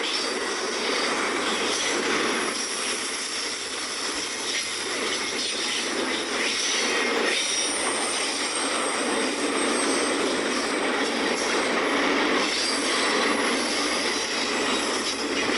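Norfolk Southern intermodal freight train rolling past, with steady wheel-on-rail noise from the passing cars.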